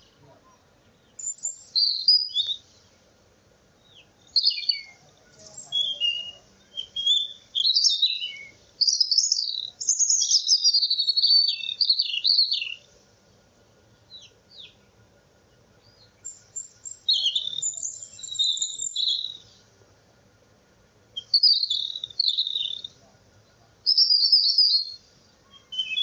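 Birds chirping and singing in quick, high phrases of notes that sweep up and down. The phrases come in bursts of one to four seconds, separated by short pauses.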